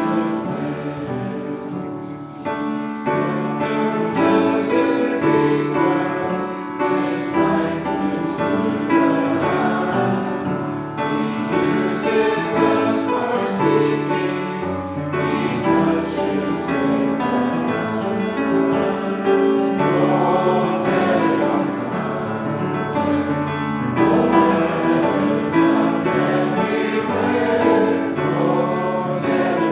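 Many voices singing a hymn together in slow held notes.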